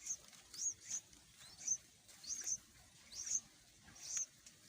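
Yellow-vented bulbul nestlings giving short, high, upward-sliding begging chirps, about eight in a row at irregular half-second intervals: hungry chicks calling for a parent to feed them.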